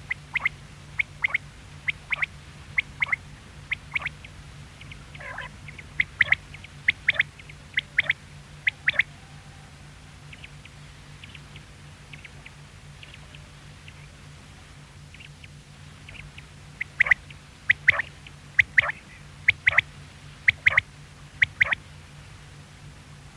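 Quail calling: short, sharp, high notes, mostly in quick pairs, in two loud runs with fainter notes in a quieter spell between them.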